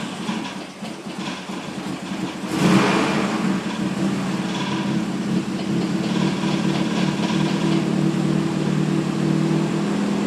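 A freshly rebuilt, turbocharged Nissan KA24DE inline-four being cranked on its first start. It catches with a sudden loud burst about two and a half seconds in, then runs steadily.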